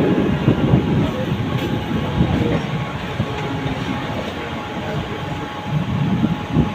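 Mumbai suburban local train running on the line: a steady low rumble of wheels on rails with some clatter over rail joints, easing a little midway and swelling again near the end.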